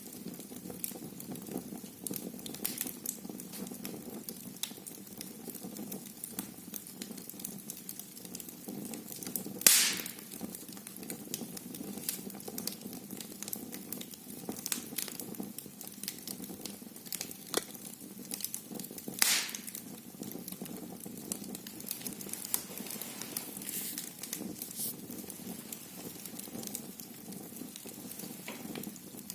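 Wood fire burning in a fireplace: a steady low rush of flames with constant small crackles, and two louder pops, about ten seconds in and again about nineteen seconds in.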